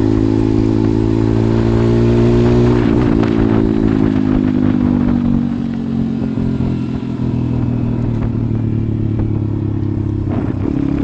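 A 140cc pit bike's single-cylinder four-stroke engine running under way. The engine note holds and creeps up, drops about three seconds in, and runs steady at lower revs for the rest, dipping briefly in loudness around the middle.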